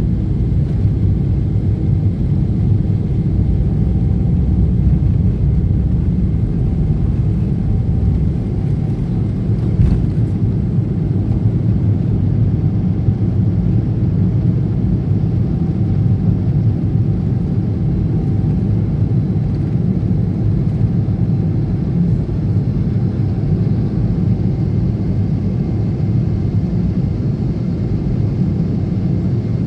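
Passenger jet airliner cabin noise: a loud, steady low rumble of engines and airflow, with a faint steady whine above it.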